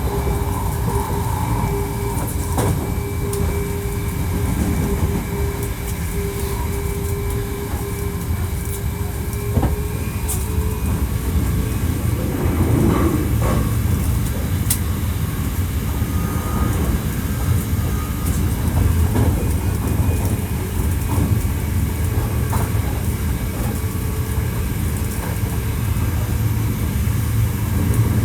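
Hankyu 1300 series electric train running at speed between stations, heard from inside the car: a steady low rumble of wheels on rail with a steady hum from the Toyo IGBT-inverter-driven traction motors that fades out about ten seconds in, and scattered clicks over rail joints. This unit is noted for its unusual running noise.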